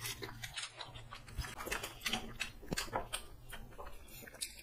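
Close-up chewing and biting of fried chicken leg pieces: irregular small wet clicks and crunches, several every second.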